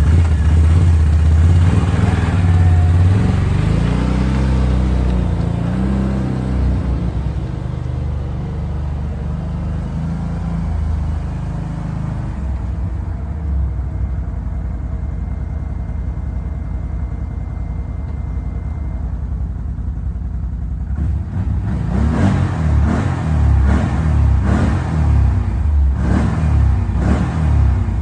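Can-Am quad (ATV) engine revving up and down, settling into a steadier run in the middle. Near the end it is blipped in a quick series of short revs, about one a second.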